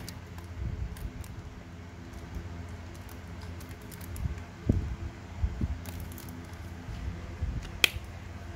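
Quiet handling of metal Zippo lighters: scattered light clicks and taps, the sharpest near the end, over a steady low hum.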